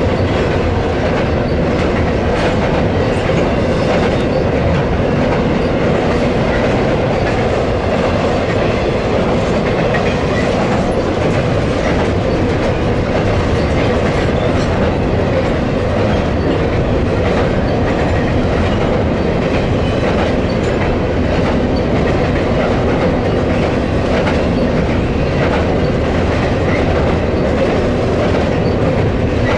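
Freight train cars rolling past, their wheels clicking over the rail joints in a steady, loud rumble.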